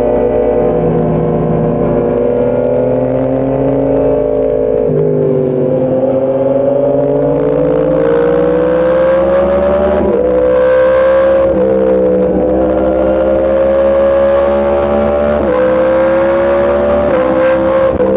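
Sport motorcycle engine under load, its pitch climbing slowly and dropping suddenly about six times as it shifts up through the gears, with wind noise throughout.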